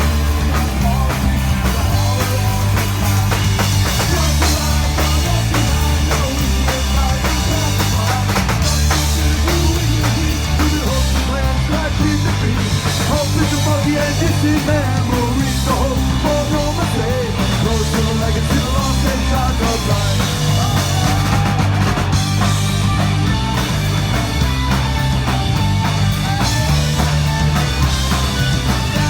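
Punk rock band playing loud and fast with drum kit, bass and guitars, in a steady, driving rhythm.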